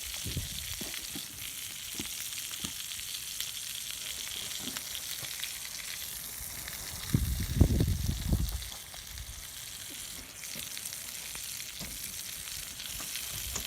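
Food sizzling in a frying pan, a steady hiss with small pops. About halfway through, a louder low rumble or bump lasts a second or so.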